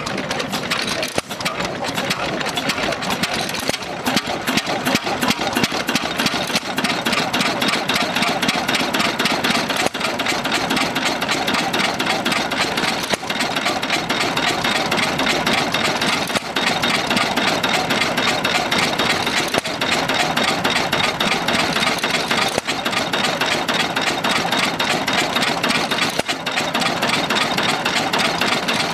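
Ruston & Hornsby 1XHR open-crank stationary diesel engine running steadily.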